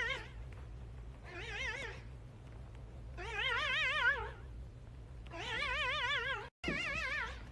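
A cat giving a series of strange, wavering cries, four in a row, each about a second long with a fast warble in its pitch.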